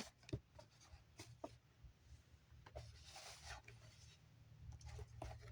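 Faint rustling and a few light clicks of cards being handled, over near-silent room tone.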